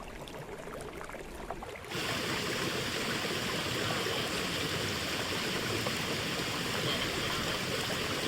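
Forest stream flowing over rocks: a lighter trickle with small splashes, then about two seconds in it cuts abruptly to a louder, fuller, steady rushing of water.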